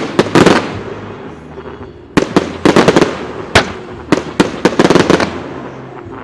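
Fireworks salute going off: sharp bangs and crackling from shells launching and bursting. There is a bang at the start, a quick run of them about two to three seconds in, and another run around four to five seconds.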